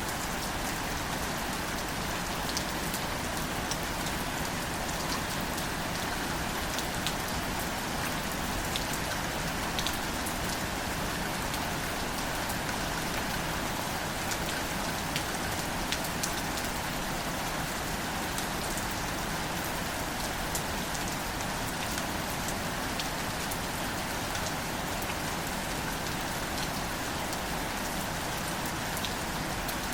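Steady rain falling on plants and leaves, an even hiss with scattered close drop taps.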